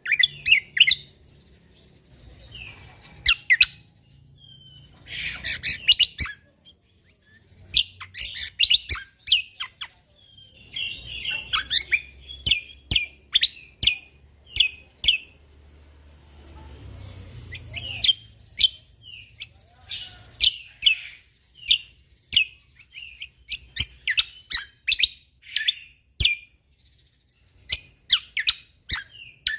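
Cucak kombo (kecial kombok) songbird singing: bursts of sharp chirps and whistled notes, then, from about two-thirds of the way through, a run of short notes repeated about twice a second.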